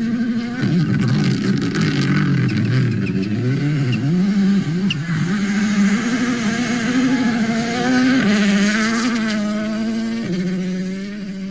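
Rally car engine revving hard, its pitch climbing and dropping again and again as it accelerates and shifts. It climbs once more, then settles to a steadier, lower note near the end.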